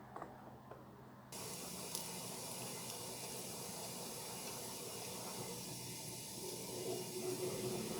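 A water tap turned on about a second in, water running steadily into a sink, the flow sound growing fuller near the end.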